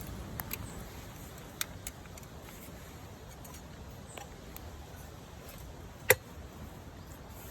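Low steady background noise with a few small sharp clicks, and one much louder sharp click about six seconds in.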